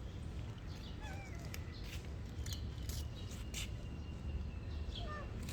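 Cats eating, their chewing heard as sharp irregular clicks over a low rumble, with a few short chirping calls about a second in and again near the end.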